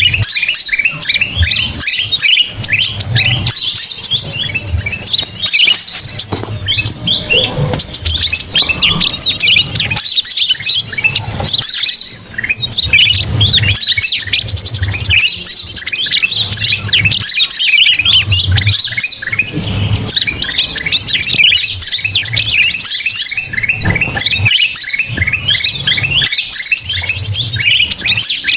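Dense chorus of many small birds chattering and calling at once, including sooty-headed bulbuls (kutilang): a constant mass of overlapping chirps, trills and squawks, the agitated 'noisy' flock calling used as a bird lure. A low pulsing hum runs underneath.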